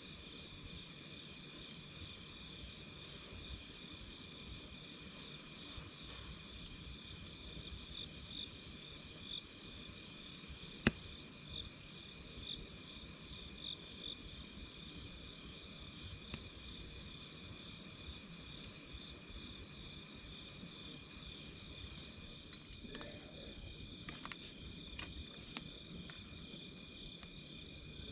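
Insects trilling steadily at two high pitches, the upper one pulsing rapidly. A wood fire pops now and then: one sharp crack about eleven seconds in, and a run of small crackles near the end.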